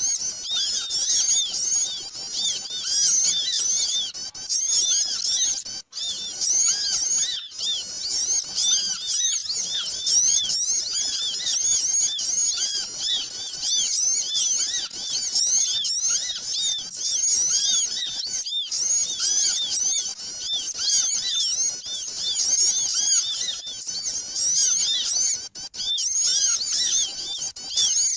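Lure recording of a flock of small birds chirping and twittering at once: a noisy, unbroken mass of short, high, overlapping chirps.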